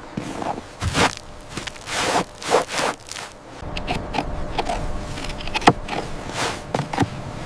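Irregular crunching and scraping strokes, heavier in the first few seconds, then lighter and sharper clicks and scrapes.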